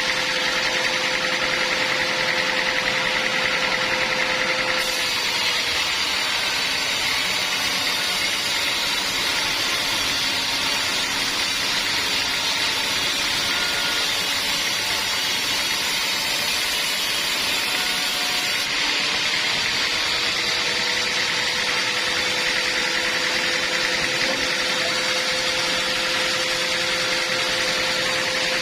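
Sawmill bandsaw machinery running steadily with a constant hum. From about five seconds in until about nineteen seconds a brighter, hissier sound joins and the hum drops back.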